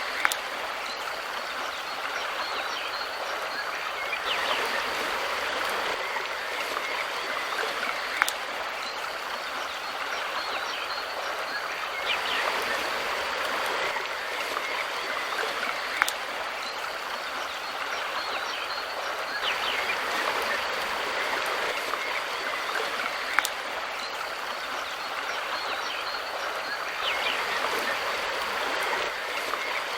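River water flowing and rushing in a steady hiss that swells and eases every several seconds, with an occasional sharp click.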